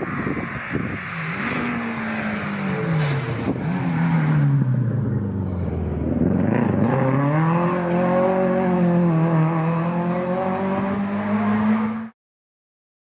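Rally car engine at full volume. Its pitch falls steadily for several seconds as the car slows, then climbs again and holds high as it accelerates away. The sound cuts off suddenly near the end.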